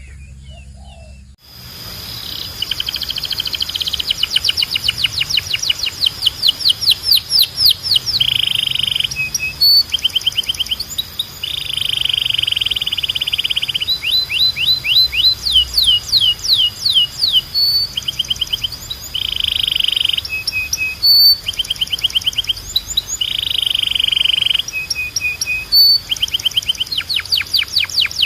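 Domestic canary singing a long, loud song of rapid rolling trills and runs of quick sweeping notes, starting about a second and a half in after a brief quieter gap.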